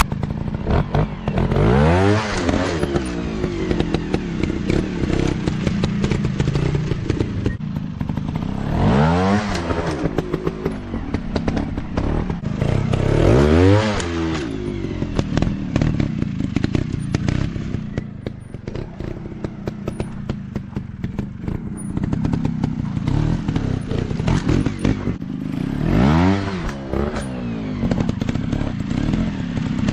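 Dirt bike engines running, with the pitch climbing and dropping again four times as the throttle is opened and closed.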